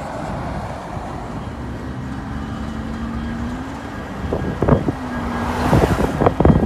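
Norfolk Southern diesel freight locomotives running past close by: a steady engine drone, joined from about four seconds in by sharp clanks of wheels over the rail joints as the train goes by.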